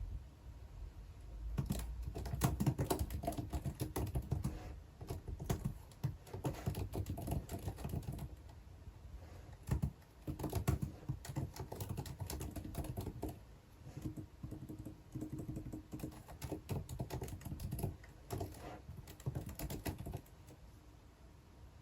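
Typing on a computer keyboard: irregular runs of key clicks with short pauses, stopping about two seconds before the end.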